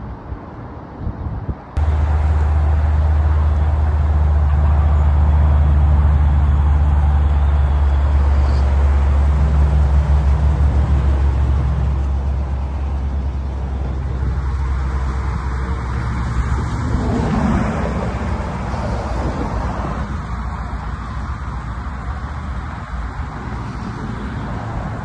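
A Dodge Challenger's engine comes in abruptly at a loud, steady high idle about two seconds in, then eases to a lower idle from about halfway through: a cold start settling down.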